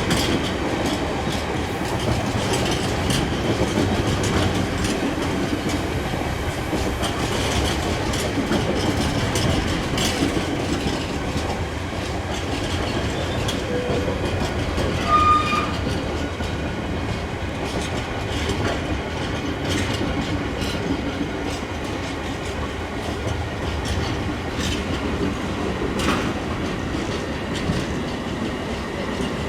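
A train running through, its wheels clattering on the rails in a steady rumble. A brief high tone sounds about halfway through.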